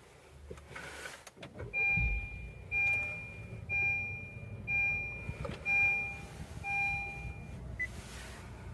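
A Honda hybrid's dashboard chime beeping six times, about once a second, after the power button is pressed, over a low steady rumble that starts with a thump about two seconds in.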